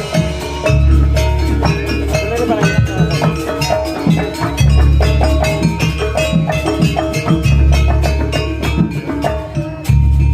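Banyuwangi gamelan-style percussion music: struck metallophone notes and drums, with a deep low swell coming back about every three seconds.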